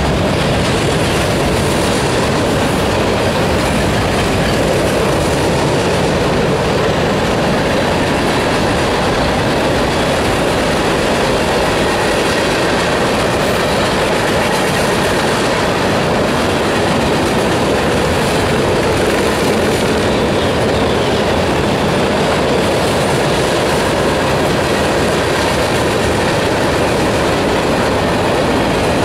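Freight cars of a CSX train rolling past, a steady loud rumble and clatter of steel wheels on the rails.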